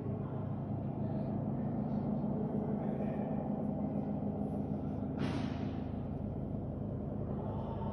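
Steady low mechanical hum, with a short burst of hiss about five seconds in.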